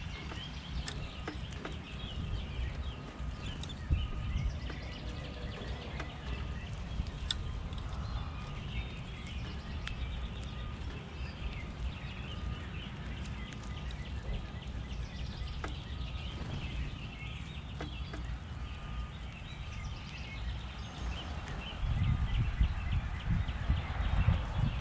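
Small backyard birds chirping and calling in short high notes scattered throughout, over a steady low rumble that grows louder near the end.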